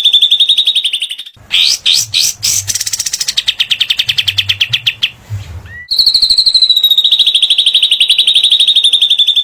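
Recorded song of cililin and katem songbirds, played as a masteran training track: fast, evenly pulsed high trills. The song breaks off about a second in, then comes back with a run of varied notes and another trill. A long steady trill starts about six seconds in.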